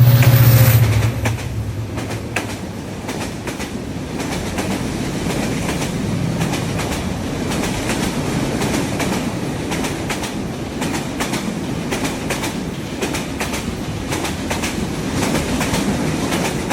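Train running on the line: a steady rumble of the cars with irregular sharp clicks of wheels over the rail joints. It is loudest in the first second, with a low droning tone.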